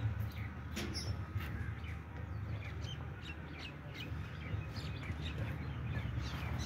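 Small birds chirping repeatedly, several short chirps a second, over a steady low hum.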